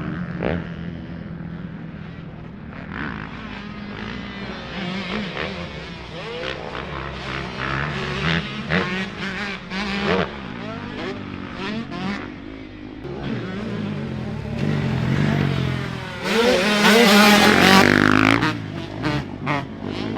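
Dirt bike engines revving up and down as they ride a motocross track. Near the end one bike passes close and loud, its engine pitch rising and falling.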